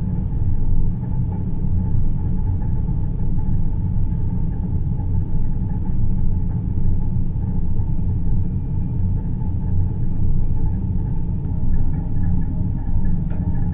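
Space-themed sleep ambience: a steady, deep rumbling drone with a faint hum above it, no music.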